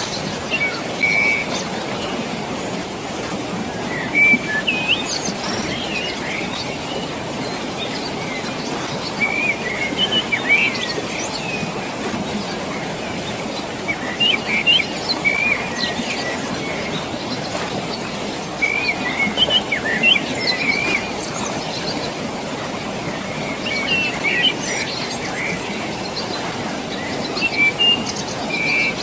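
Steady rushing water in a valley, with short bursts of bird chirps every few seconds over it.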